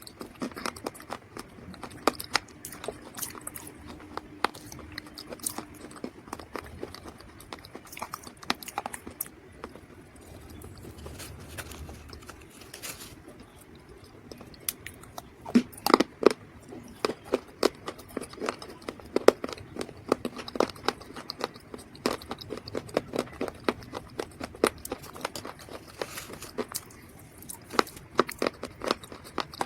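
Close-miked crunching of dry mud being bitten and chewed: a dense run of sharp cracks and crumbles. The loudest clusters come about halfway through and again near the end.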